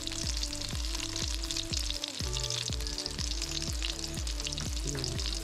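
Oil sizzling around a squash-flower omelette frying in a wok, over background music with a steady bass beat.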